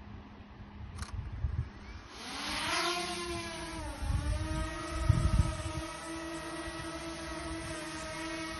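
Small quadcopter drone's motors spinning up and lifting off about two seconds in, the whine rising in pitch, then settling into a steady hovering whine.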